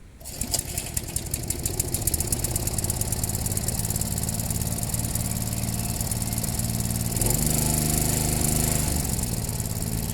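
Small Briggs & Stratton four-stroke engine of a push lawn mower running, building up over the first second or so and then running steadily. About seven seconds in it gets louder and slightly higher.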